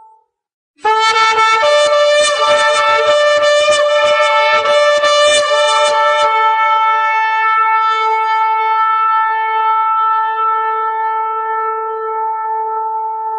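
Shofar (ram's-horn trumpet) blown about a second in: a loud blast that stutters rapidly for its first five seconds, then settles into one long steady note held almost to the end.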